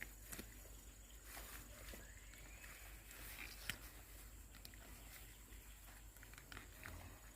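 Near silence with faint rustling and scattered light clicks, one sharper click about halfway through, over a faint steady high tone.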